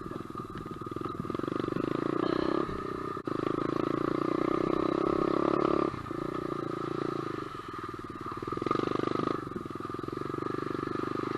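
SSR125 dirt bike's single-cylinder four-stroke engine running while riding over rough ground. The throttle opens and eases off every few seconds, loudest in the first half.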